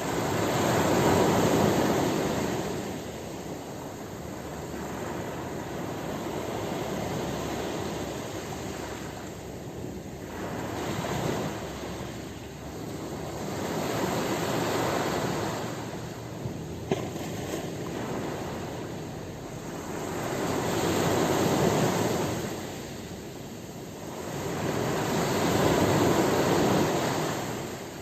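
Sea waves breaking on a shore, the surf swelling and falling back every few seconds, with the loudest breakers about a second in and in the last third. A brief click sounds about two-thirds of the way through.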